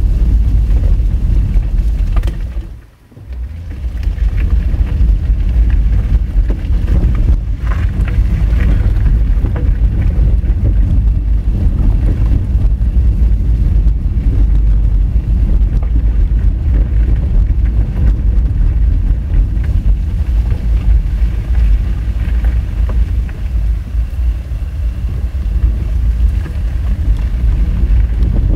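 Honda Fit driving over a rough gravel and rock dirt road, heard as a steady, loud low rumble of tyres, road and wind noise. It dips sharply for about a second around three seconds in.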